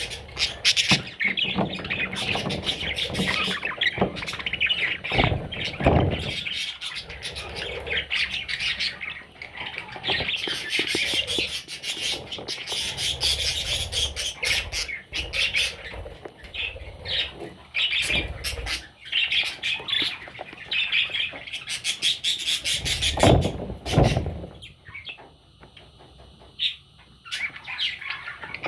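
Baby budgerigar chicks chirping and squawking rapidly and continuously, with a few loud thumps mixed in; the chirping thins out and grows quieter near the end.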